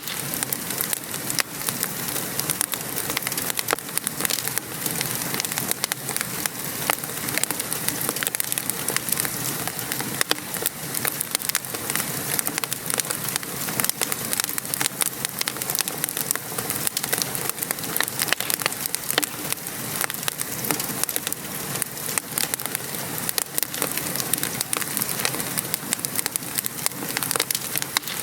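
Wood fire crackling in a fireplace with steady rain patter: many small sharp pops over an even hiss.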